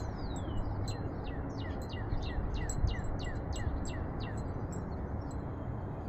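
A small bird singing: one long whistle sliding down in pitch, then a quick run of about a dozen short down-slurred notes, about four a second, over a steady low background rumble.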